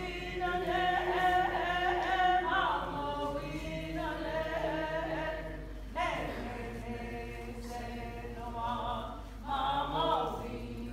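A group of voices singing a chant together in long held notes. New phrases begin about six seconds in and again near the end.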